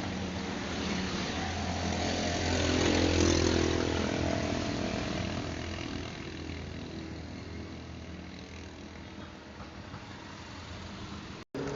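A motor vehicle engine running, growing louder to a peak about three seconds in and then fading away over the next several seconds, like a vehicle passing by. The sound cuts out abruptly for a moment just before the end.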